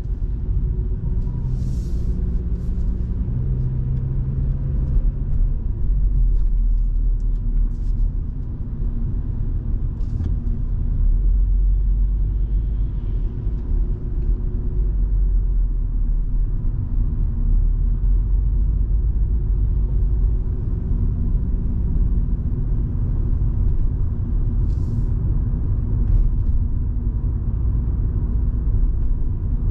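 Volvo V70 2.5T's turbocharged five-cylinder engine and road noise heard from inside the car while driving: a steady low rumble whose engine note drifts gently up and down with speed, with a few brief faint swishes.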